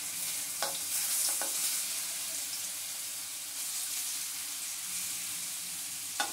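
Boiled giant taro (man kochu) pieces sizzling steadily as they go into hot mustard oil in a frying pan, with a few light knocks about half a second in, near one and a half seconds, and just before the end.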